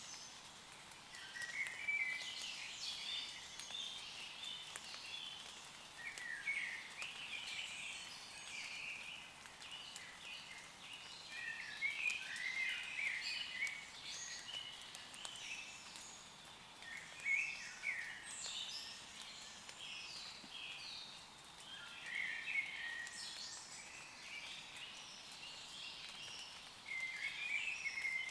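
Woodland birds singing short phrases every few seconds over a faint, steady patter of rain on leaves.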